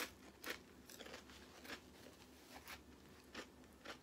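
Quiet close-up chewing of Quest protein chips topped with chicken salad: a handful of short, irregular crunches.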